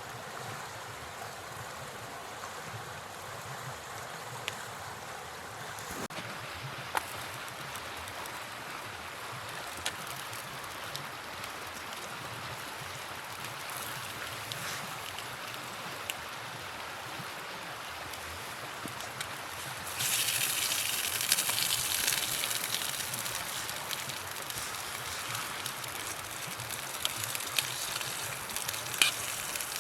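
Steady rush of flowing river water, with a few scattered sharp clicks. About twenty seconds in, a louder, higher hiss sets in suddenly.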